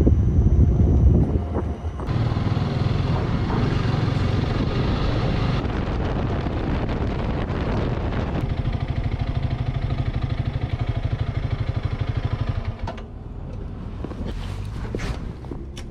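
Motorcycle riding sound: the Honda CRF300 Rally's single-cylinder engine runs with wind buffeting the microphone, and the engine settles into an even pulsing note. About thirteen seconds in, the engine sound drops away to a quieter background with a few sharp clicks.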